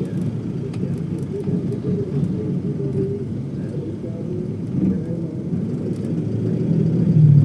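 Steady low rumble of a vehicle, with faint voices in the background, growing louder near the end.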